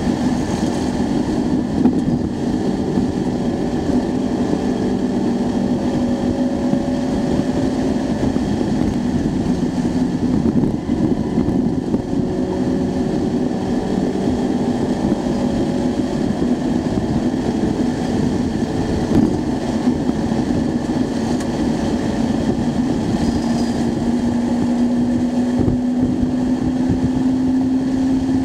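Acura Integra Type R's four-cylinder engine running hard, heard from inside the cabin over road and wind noise. Its pitch climbs slowly in long pulls through the gears, with a short dip about eleven seconds in and another rise near the end.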